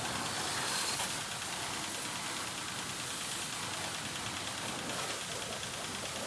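Water spraying in a steady hiss.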